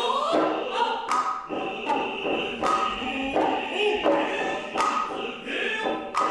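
Noh performance music: a chorus chanting, with sharp drum strikes from the hayashi ensemble coming about one every half second to a second.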